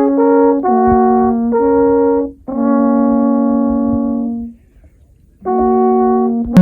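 Alphorns playing a slow tune of long held notes, at times two pitches sounding together, with a short pause about four and a half seconds in.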